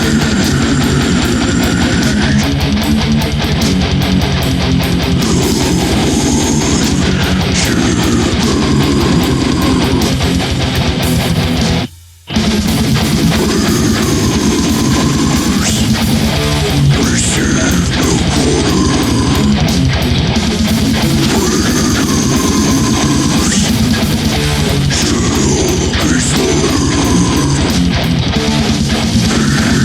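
Heavy metal song with distorted electric guitars on Jackson guitars with EMG pickups, over fast, dense drumming. The whole band cuts out for a brief break about twelve seconds in, then comes straight back in.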